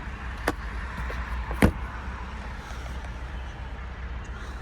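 Two sharp clicks about a second apart, the second louder, over a steady low rumble.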